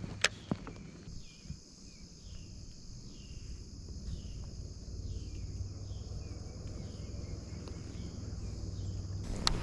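Insects buzzing steadily at a high pitch, with a short falling chirp repeating about every three-quarters of a second over it. A few sharp knocks come at the start, and a loud knock comes right at the end.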